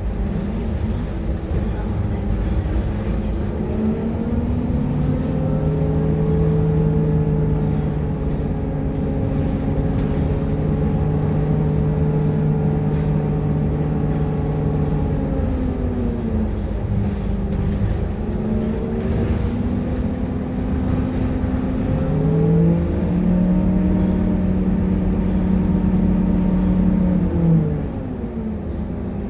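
Scania K230UB bus's diesel engine running. The engine note climbs, holds steady for about ten seconds, then drops away as the bus slows. It sits low for several seconds, climbs again and holds, then falls off near the end.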